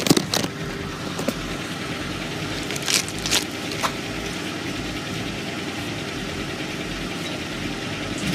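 1985 Buick Century Estate Wagon's engine idling steadily, heard close at the exhaust, with a few light clicks in the first four seconds. The owner puts the car's stalling down to a misfire.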